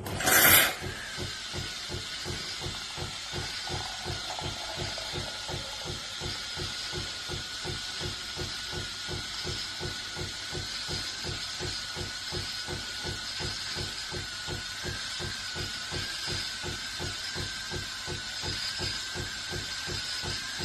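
Fully automatic coffee machine running with a steady hiss and a high whine over an even pulsing of about three beats a second, after a short sharp burst at the start.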